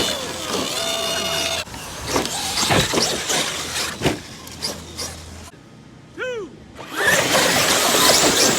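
Several large brushless electric RC trucks running, their motors whining up and down in pitch as they accelerate and back off, with scattered knocks. The sound drops away for a moment past the middle, leaving one short rising-and-falling whine, then the motors come back in.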